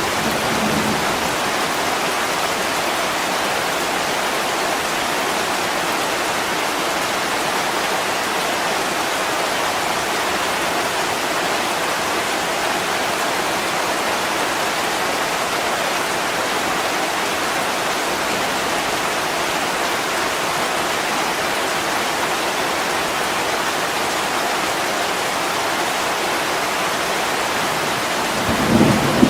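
Heavy rain falling steadily on a window pane, an even hiss. About a second before the end a low rumble of thunder rises.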